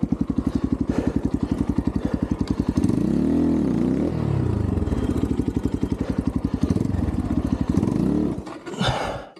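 Xpro Templar X 250cc dirt bike's single-cylinder engine running at a low idle with an even, pulsing beat. It is revved up and back down once about three seconds in and blipped again near the eight-second mark, then the engine stops shortly before the end. The carburettor's idle was set too low, which the rider says kept it bogging and stalling.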